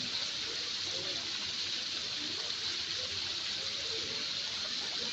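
Steady rushing of a waterfall, an even hiss that holds at the same level throughout.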